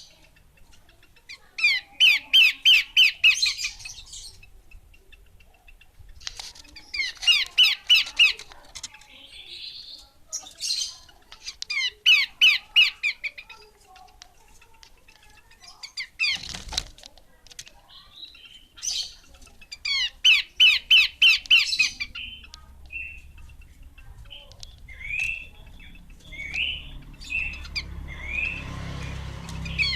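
Female pelanduk semak babbler calling: bursts of rapid, harsh repeated notes about two seconds long, coming every five or six seconds, with scattered short single notes in between and one sharp click about halfway through.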